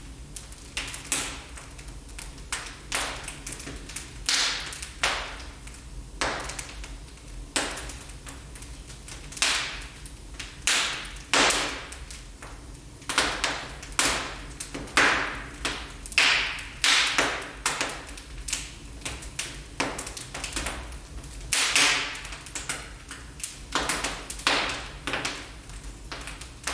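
Wood fire burning in a fireplace, crackling with sharp pops and snaps at irregular intervals, about one or two a second, over a faint steady low rumble.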